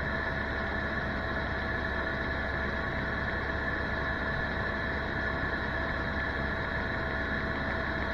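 Tour helicopter running steadily: a constant turbine whine over the low drone of the rotor, unchanging throughout.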